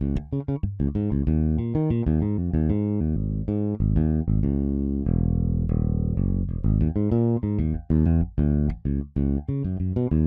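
Toontrack EZBass virtual electric bass playing a modern funk MIDI groove: a fast line of short, choppy notes, with one longer held note about halfway through.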